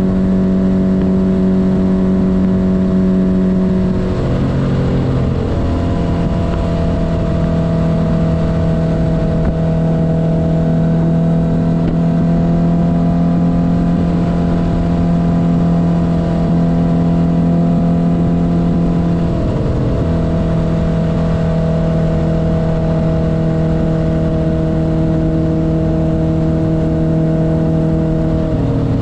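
1972 Honda CB500's air-cooled inline-four engine running under way at steady revs. The pitch drops briefly about four seconds in and again about nineteen seconds in, like gear changes, then settles.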